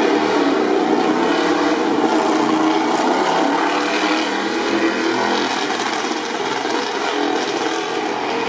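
MotoGP race motorcycle engines running: a continuous, dense engine noise with a wavering pitch and no single bike standing out.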